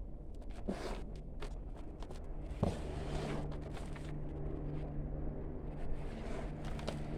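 A steady engine drone in the distance, growing louder from a few seconds in, with soft rustling and small knocks of potatoes and soil being handled.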